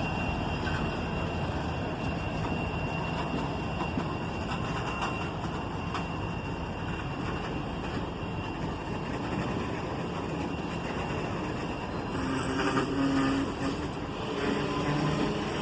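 Freight train hauled by diesel locomotives, a GE ET44AH leading and a rebuilt EMD SD70AC second, rolling past with a steady low engine rumble and rail noise, growing a little louder near the end.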